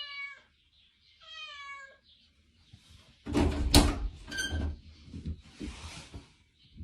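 A domestic cat meows twice, two short high calls, then a few seconds of thumps and rustling, loudest just after the middle.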